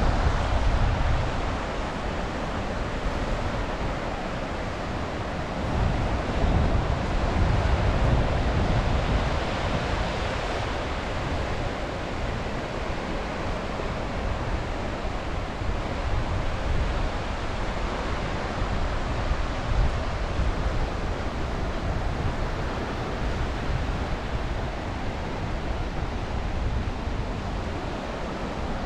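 Sea waves washing onto the beach in a steady wash of surf, swelling louder about a second in and again from about six to ten seconds in. Wind gusts rumble on the microphone.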